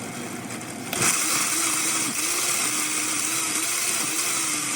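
Countertop blender running, blending dried chiles japoneses, garlic and vinegar into a spicy sauce. About a second in it clicks up to a louder, higher speed, the motor's pitch dipping now and then as the contents churn.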